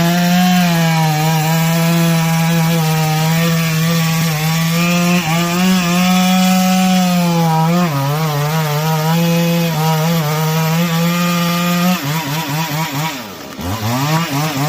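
Chainsaw engine running at high revs, holding a steady pitch while it cuts, with brief dips in pitch; about twelve seconds in the revs start rising and falling rapidly as the throttle is worked.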